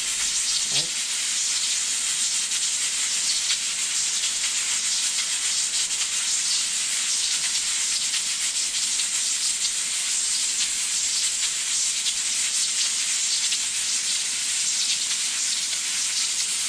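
Bitter melon (karila) frying in hot oil in a pan: a steady sizzle with a fine, continuous crackle.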